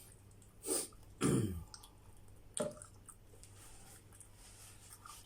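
Mouth and throat sounds of a person eating pizza: a breathy noise, then a throat-clearing grunt falling in pitch about a second in, then a short click near three seconds, over a low steady hum.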